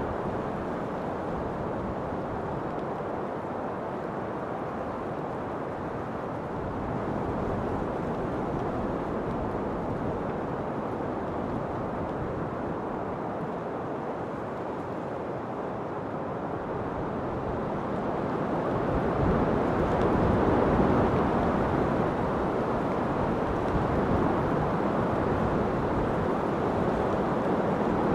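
Steady rushing wind. It swells louder about two-thirds of the way in and stays up.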